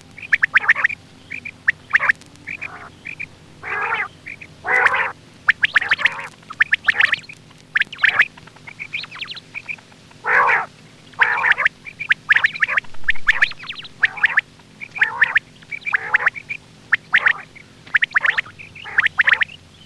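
Quail calls played for hunting: short, raspy calls repeated over and over, about one or two a second, over a faint steady hum.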